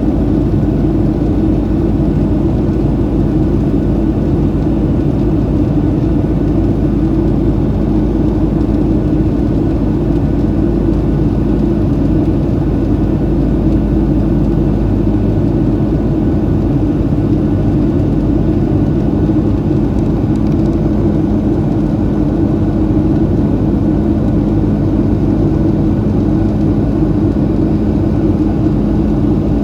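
Steady in-flight cabin noise of a Boeing 737-700 with CFM56-7B engines: a constant loud rushing drone of engines and airflow with a steady low hum, unchanging throughout.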